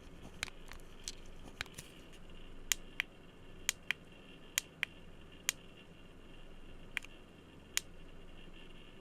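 Light tapping on small hard objects: about a dozen sharp, irregular taps and clicks, some in quick pairs, over a faint steady hiss.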